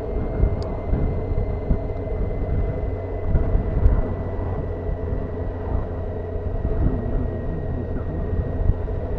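Honda CBF motorcycle riding at a steady pace, its engine holding a steady hum over a heavy low rumble of wind and road.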